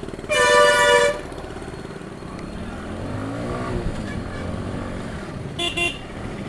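A vehicle horn gives one loud blast about half a second in, over the steady running of a motorcycle engine and road noise. The engine note rises and falls in the middle. Near the end a horn gives two short toots.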